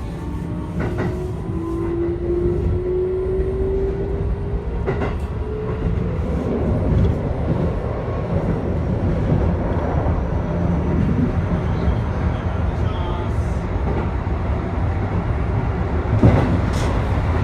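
Keikyu electric commuter train heard from inside the front car: the motor whine climbs in pitch over the first few seconds as the train accelerates, then gives way to a steady running rumble with a few sharp clacks of the wheels over rail joints.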